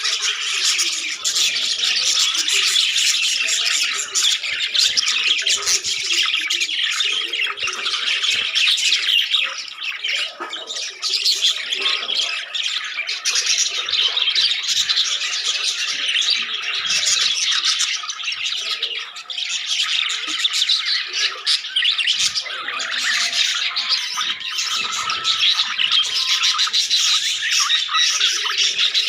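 A flock of budgies chattering and chirping together, a dense, continuous mix of warbles and squawks.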